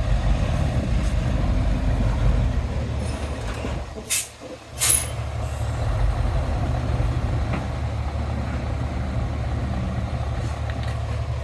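Heavy diesel engines of earthmoving machinery running steadily. The sound drops out briefly about four seconds in, with two short, sharp hisses.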